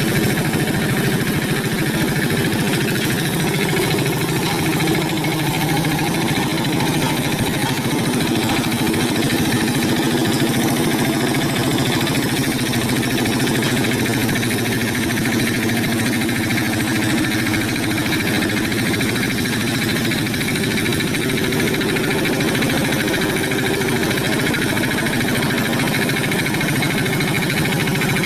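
Hand tractor's engine running steadily at a constant speed.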